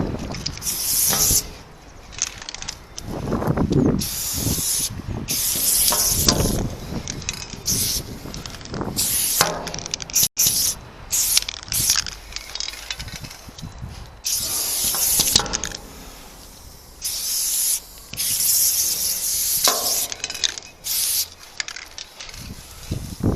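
Aerosol spray-paint can spraying in repeated bursts of hiss, each a second or two long, with short pauses between.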